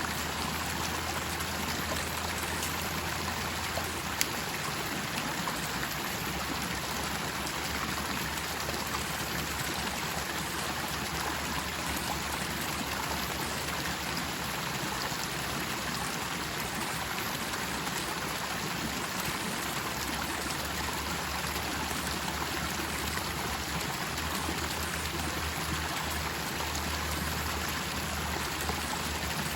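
Steady rush of flowing stream water, with one short sharp click about four seconds in.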